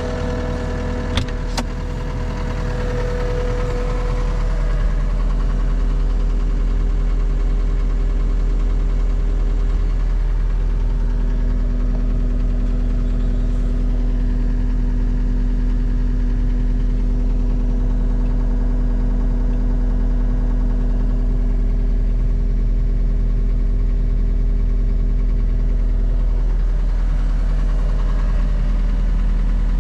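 2017 John Deere 331G skid steer's diesel engine running steadily with a deep hum. It gets louder over the first few seconds and then holds even, with two sharp clicks a little over a second in.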